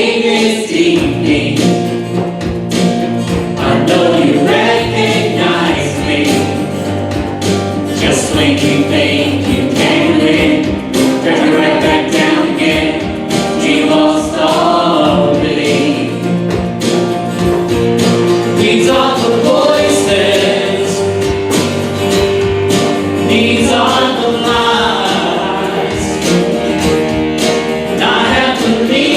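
A group of voices singing a hymn together over instrumental accompaniment, with steady, sustained sung notes.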